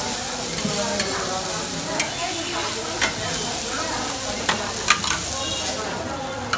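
Marinated meat pieces frying and sizzling in oil on a large flat street-food griddle (tawa). A metal spatula scrapes and clicks sharply against the griddle about five times as the pieces are turned.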